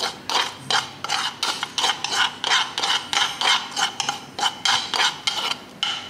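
Metal spoon scraping pounded lemongrass, garlic, ginger and shallot paste out of a mortar, in repeated short rasping strokes about three a second.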